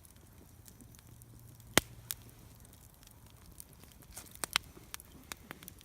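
Wood campfire crackling, with sharp pops: a loud one about two seconds in and a quick run of smaller pops near the end.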